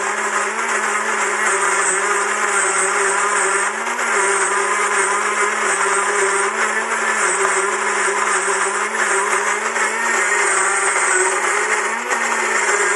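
SHARDOR electric burr coffee grinder running, its motor grinding coffee beans: a loud, steady low hum under a dense grinding rasp.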